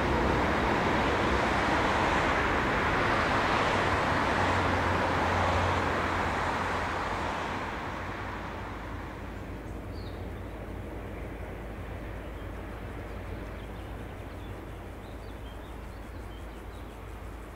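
Rolling noise of a train moving away, fading out over the first eight seconds or so. After it comes a quieter background with a low steady hum and a few faint high chirps.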